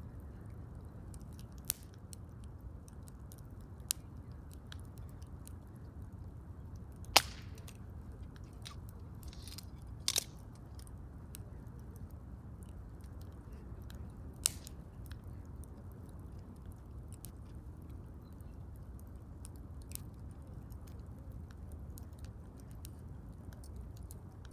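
Wood fire crackling: a steady low hiss with scattered sharp pops. The loudest pop comes about seven seconds in and another about ten seconds in.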